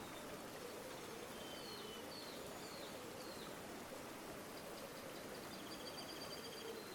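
River water flowing steadily, with small birds calling over it: a few short high chirps in the first half, then a fast high trill near the end.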